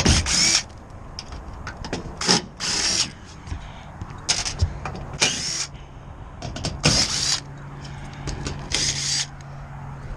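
Power drill run in about six short bursts, each with a high whine.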